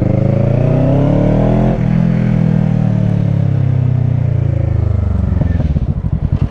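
2022 Kawasaki Ninja 650's parallel-twin engine through a Shark SRC-4 full aftermarket exhaust, accelerating with rising pitch and a quick upshift about two seconds in. It pulls on briefly, then the revs fall away as the throttle closes, dropping to a low, lumpy putter near the end.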